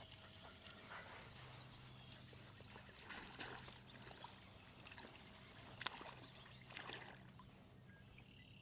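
Faint water trickling around a kayak, with a few soft knocks, while a hooked fish is brought in.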